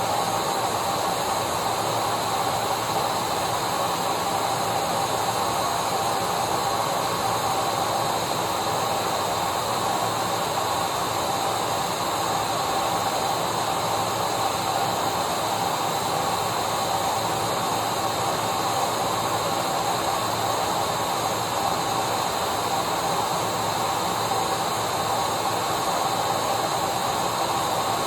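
Vacuum cleaner running continuously: a steady motor whine over an even hiss of rushing air, unchanging in pitch and level.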